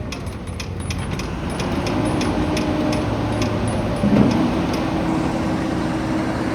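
Heavy vehicle engine running with a steady low rumble; a droning tone sets in about two seconds in, with a brief louder swell about four seconds in.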